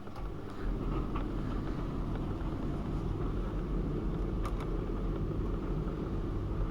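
AEG Öko-Lavamat 72520 washing machine running with a low, steady rumble that gets louder about half a second in, with a few faint clicks over it.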